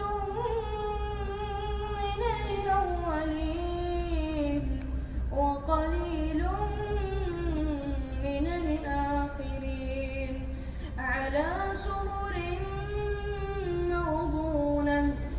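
A young boy's high voice reciting the Quran in melodic, chant-like tajweed. Long phrases glide up and down in pitch and are held out, with short breaths between verses about 5 and 11 seconds in.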